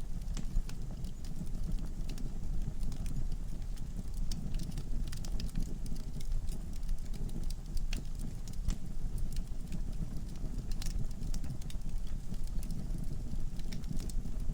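Wood fire burning in a fireplace: a low steady rumble of flames with irregular sharp crackles and pops from the logs.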